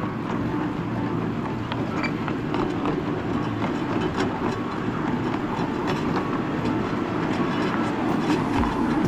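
Miniature tourist train running along its track: a steady rumble of wheels on rail with many small clicks.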